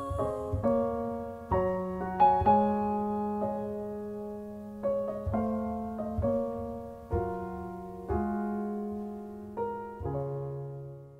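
Slow, gentle solo piano music: single notes and chords struck about once a second and left to ring and decay, fading out at the end.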